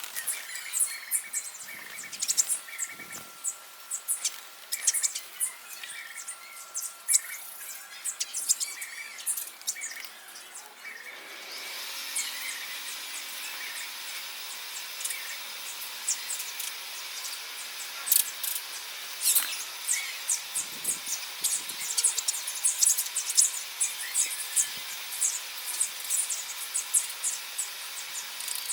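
Small birds chirping, with many short, high calls overlapping. Under them runs a steady outdoor hiss that grows louder after a cut about eleven seconds in.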